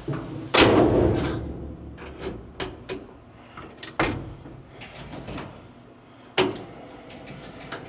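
Clunks and clicks from the pickup's cab: a loud clunk about half a second in, then sharper clicks about four and six seconds in, over a low steady hum.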